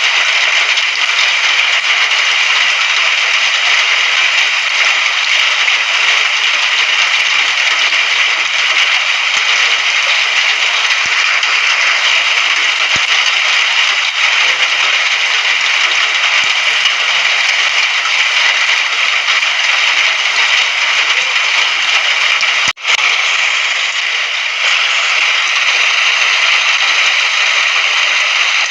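Rain sound effect: a steady, even hiss of rainfall with no thunder. It cuts out suddenly for a split second about three quarters of the way through, then resumes.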